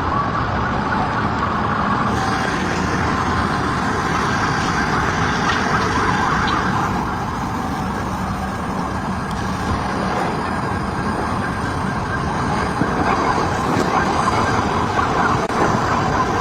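Emergency vehicle sirens wailing over heavy street noise.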